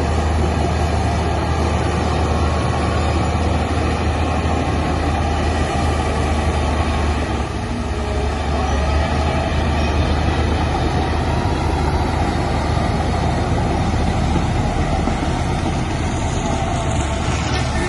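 Heavy diesel construction machinery running steadily, with a deep, constant engine drone.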